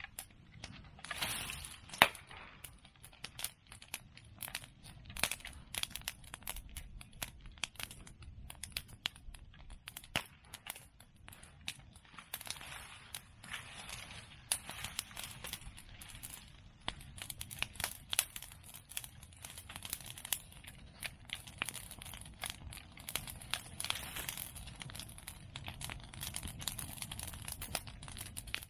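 Bonfire of cut bamboo and chestnut pruning branches crackling, with dense irregular snaps and pops and one sharp, louder pop about two seconds in.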